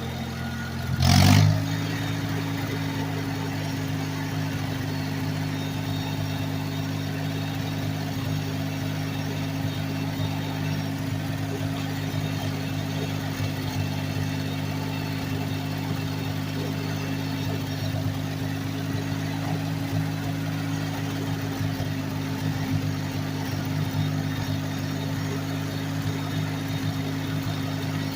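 Ford 4000 tractor's gasoline engine running steadily while the front loader works, with a brief loud burst of noise about a second in.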